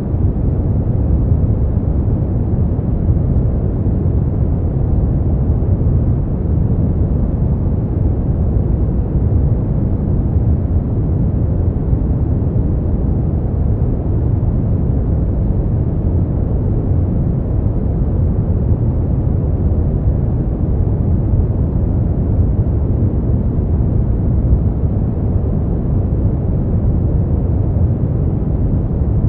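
Steady, unbroken noise for sleep, deep and muffled, with its weight in the low end and very little treble, closer to brown noise than to a bright white hiss.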